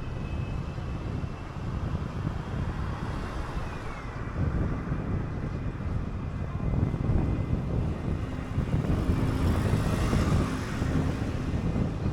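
City bus under way: a steady engine and road rumble that grows louder from about halfway through. A faint high whine slides down in pitch about four seconds in, and a swell of hissing noise rises around ten seconds in.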